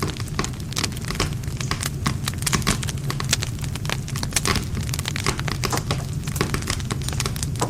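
Wood campfire crackling: a dense stream of sharp snaps and pops over a steady low rumble of the flames.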